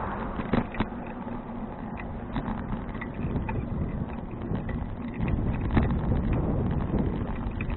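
Wind buffeting the microphone and the low rumble of a 2012 Fuji Touring bicycle being ridden, with scattered sharp clicks and rattles from the bike.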